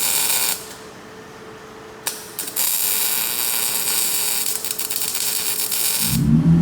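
High-pitched whine of a high-speed power tool, such as an air-powered grinder, working on exhaust pipe. It runs in two long bursts with a pause of about two seconds between. Near the end the Nissan 350Z's VQ35 V6 starts running through its new custom exhaust.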